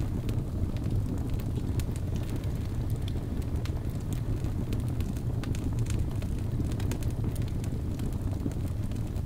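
Wood fire burning in a fireplace: a steady low rumble of flames with frequent small crackles and pops scattered through it.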